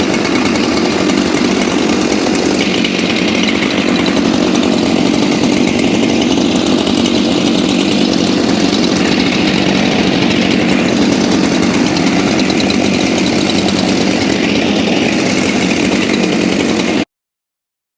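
Husqvarna chainsaw running hard at high revs as it cuts through logs, steady and loud with small shifts in pitch. It stops abruptly near the end.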